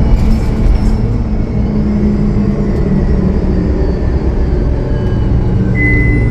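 Cummins ISL9 diesel engine of a 2013 Gillig Low Floor transit bus running while the bus is under way, a steady loud low drone with a faint hum that shifts a little in pitch. A short high beep sounds near the end.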